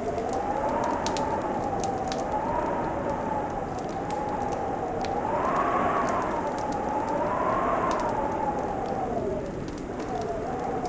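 Wood fire crackling, with scattered light pops over a steady hiss. Over it runs a wavering whistle that slowly rises and falls in pitch.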